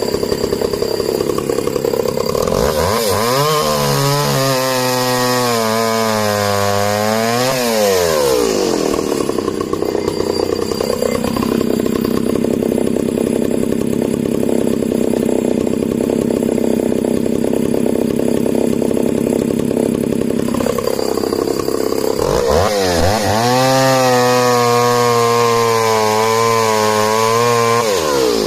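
Echo CS-602VL two-stroke chainsaw idling, then opened up to high revs for about five seconds and let fall back to idle. It idles for about twelve seconds, then is run up again and drops back near the end. The engine runs cleanly and evenly throughout, as a well-running saw should.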